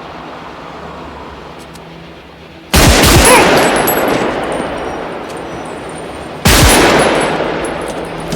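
Two loud handgun shots about four seconds apart, each ringing out in a long echoing tail.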